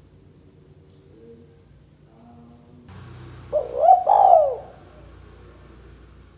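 Spotted dove cooing: one short phrase of two or three arching, rising-and-falling notes, starting about three and a half seconds in.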